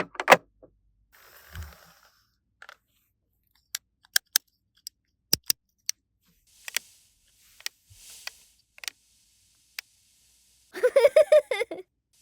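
Small plastic toy pieces being handled, giving scattered sharp clicks and taps with a few soft rustles. Near the end comes a brief pulsing, pitched sound lasting about a second.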